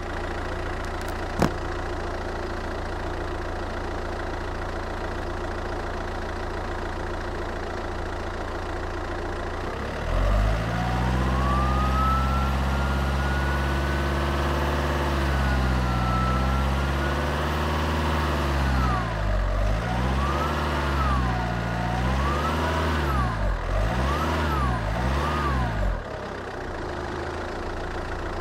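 Fiat Stilo 1.9 JTD 8V four-cylinder turbodiesel, tuned to about 142 PS, idling steadily, then held at raised revs and blipped about four times before dropping back to idle. The turbocharger whistles in a high whine that rises and falls with each rev. There is a single sharp click about a second in.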